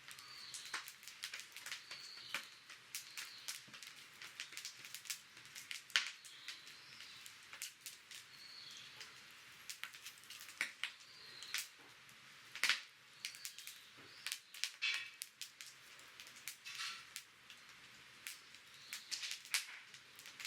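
Wood fire crackling and popping, with sharp irregular snaps and short high chirps in the background.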